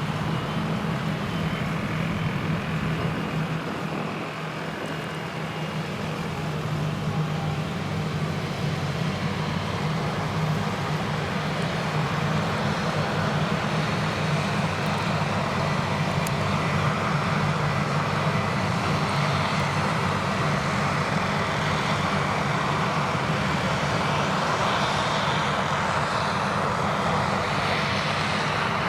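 Krone Big X 1100 forage harvester running at full power while harvesting triticale: a steady, loud engine drone under load mixed with the rush of the chopping machinery and crop. It dips slightly a few seconds in, then grows fuller and louder from about twelve seconds in.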